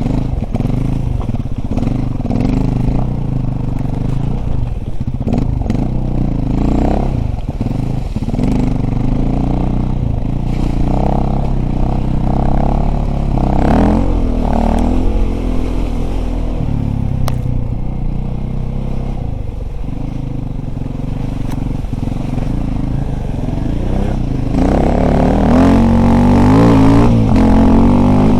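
Dirt bike engine running and revving, its pitch rising and falling as it is ridden, growing louder near the end.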